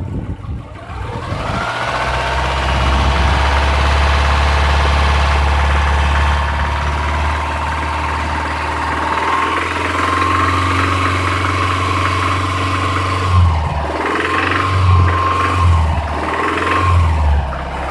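Subaru EJ253 2.5-litre flat-four engine running with a knock. It rises in speed over the first couple of seconds and holds there, then the throttle is blipped about four times near the end.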